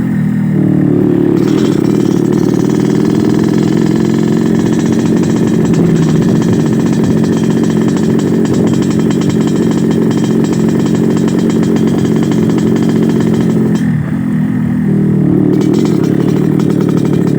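Yamaha RX King single-cylinder two-stroke motorcycle engine running at steadily held revs with its growling 'ngorok' exhaust note, set up for daily riding. The revs drop briefly right at the start and again about 14 seconds in, then climb straight back up.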